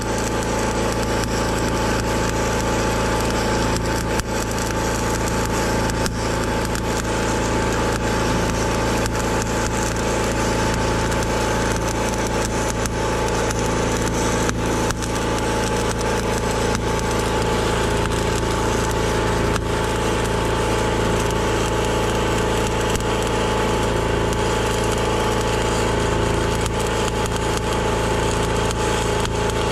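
Heavy machine's engine running steadily at a constant speed, with a few scattered sharp cracks and knocks.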